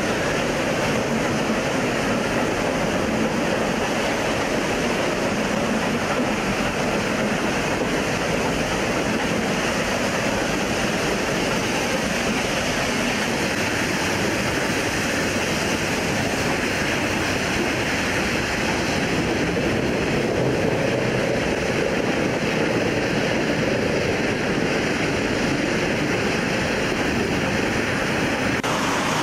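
Nilgiri Mountain Railway train running, heard from a carriage: a steady rushing noise with no distinct beat or tones.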